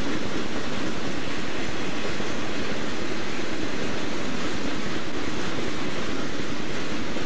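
Southern Pacific freight cars rolling steadily across a timber trestle and steel truss bridge: a continuous rumble and rattle of wheels on rail.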